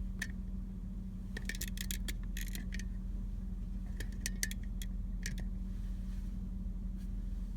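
Steady low hum of an idling vehicle engine, with two quick clusters of light, sharp clicks and rattles, the first about a second and a half in and the second about four seconds in.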